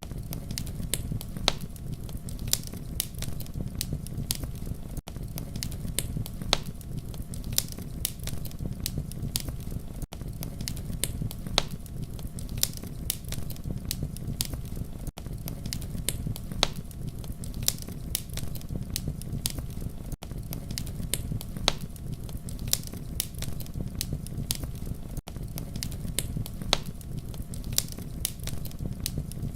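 Campfire crackling, with sharp irregular pops over a steady low rumble of burning wood. There is a very brief dip about every five seconds, where the looped fire recording repeats.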